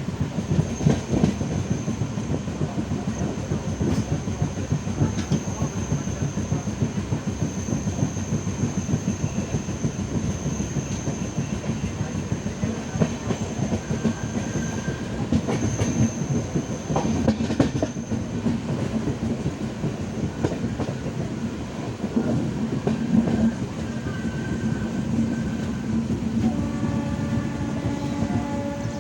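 A passenger train running along the track, heard from aboard: a steady rattle and clatter of wheels over the rails, with a thin high whine through the first half and a few steady pitched tones near the end.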